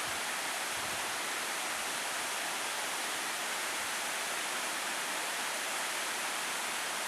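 Waterfall of a mountain creek, a steady rush of falling water, running hard after plenty of rain.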